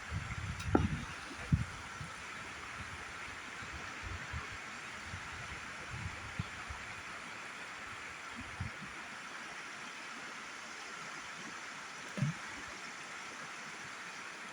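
River water running steadily over rocks, with a few short low thumps, the loudest about a second in and another near the end.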